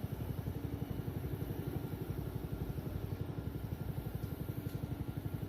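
An engine idling steadily, a fast, even low beat with a faint hum above it.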